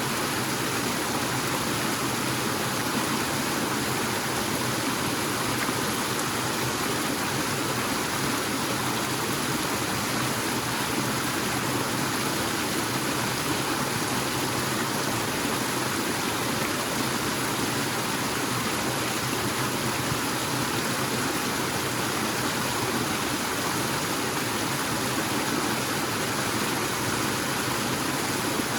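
Forest waterfall splashing steadily: an even, unbroken rush of falling water.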